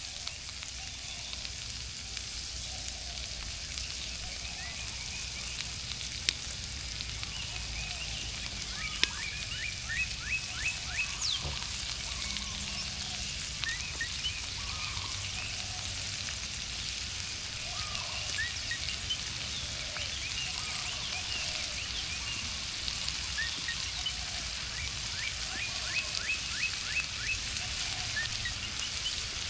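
Food sizzling and frying in a pan over a campfire: a steady hiss with scattered small pops and spits throughout.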